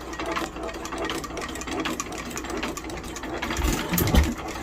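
IHC Titan 2 1/2 hp single-cylinder hit-and-miss engine running after a hard start, with a fast, even mechanical clatter. There is one heavier low thump about four seconds in.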